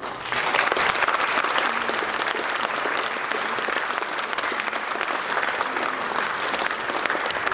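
Audience applauding, starting suddenly and continuing steadily at the end of a poetry reading.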